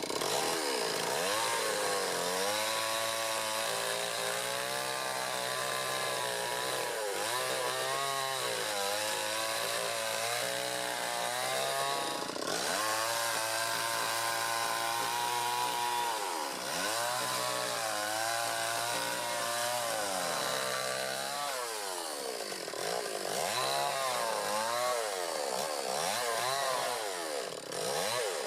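Chainsaw ripping balsam fir logs lengthwise down the centre, its two-stroke engine held at high revs through the cuts. Its pitch swoops down and back up several times.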